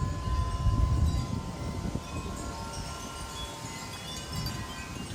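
Wind chimes ringing in gusty storm wind: one clear note struck at the start rings on for several seconds among other fainter chime tones. A low wind rumble runs underneath.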